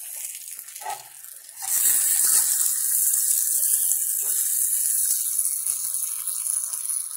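Salami slices sizzling and crackling in hot oil in a cast-iron skillet. The sizzle gets suddenly louder about two seconds in and then holds steady.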